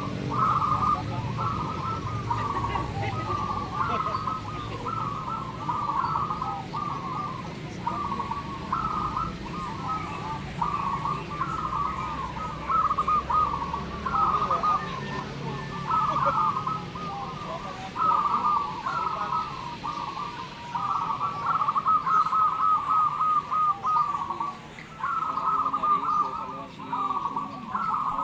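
Many zebra doves cooing at once, their rolling coos overlapping almost without a break.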